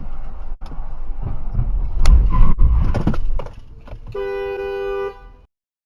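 Car interior and road noise with a heavy low rumble and a couple of sharp knocks, then a car horn blaring in one steady blast of about a second near the end before the sound cuts off.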